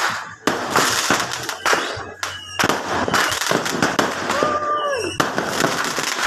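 Fireworks going off in dense, continuous crackling volleys that stop and restart abruptly several times. A person's short held call sounds briefly about four and a half seconds in.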